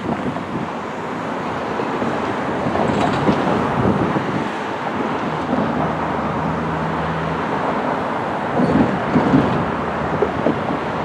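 Freight cars rumbling away down the track, with wind buffeting the microphone.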